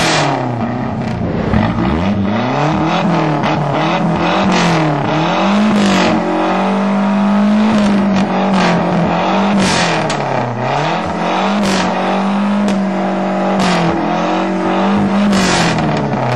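Lancia engine revved repeatedly while standing, the pitch rising and falling again and again and held high for a couple of seconds at a time, with sharp cracks now and then.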